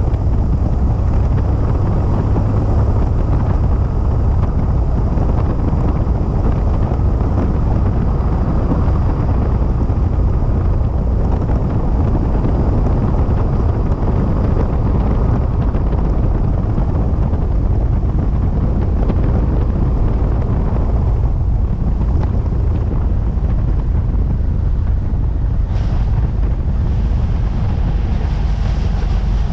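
Cessna 172 XP's engine and propeller running steadily under the rush of wind, a loud, deep drone during a glassy-water landing. A higher hiss comes up near the end.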